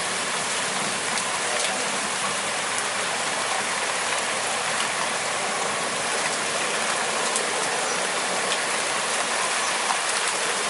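Heavy rain falling steadily: a dense, even hiss with a few faint ticks of drops striking.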